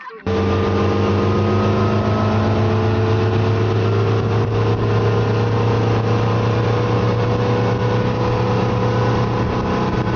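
Motorboat engine running steadily at a constant speed, starting abruptly just after the beginning.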